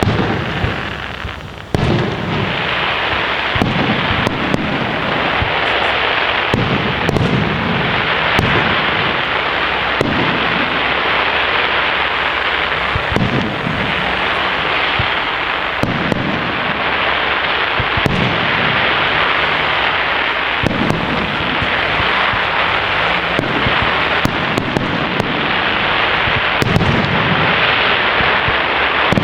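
Large fireworks display in full barrage: a dense, continuous crackle with booming shell bursts about every two seconds, starting suddenly about two seconds in.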